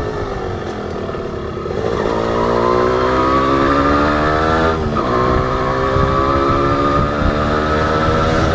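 Honda H100S single-cylinder two-stroke engine riding along. Its pitch eases off for the first second or two, then climbs under throttle. There is a short break and a drop about five seconds in, like a gear change, and it then climbs slowly again.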